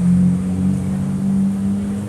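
Lamborghini Diablo VT's V12 engine pulling away at low revs, a steady drone whose pitch creeps up slightly as it fades with distance.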